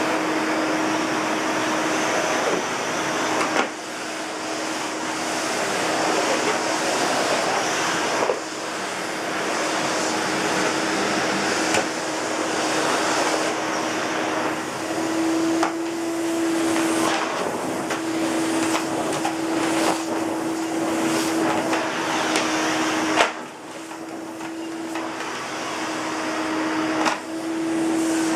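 Elektro Helios ES908E canister vacuum cleaner's 850 W motor running with a steady hum and rush of air. Its sound drops suddenly four times and then climbs gradually back up each time.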